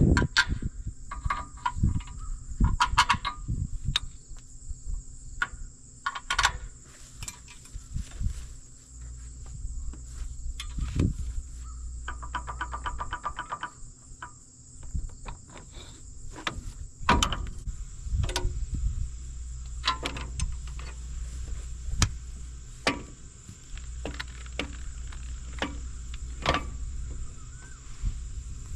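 Scattered metal clanks and knocks from a mowing machine being unhooked from a tractor's hitch, with a rapid run of clicks about halfway through. Insects trill steadily underneath.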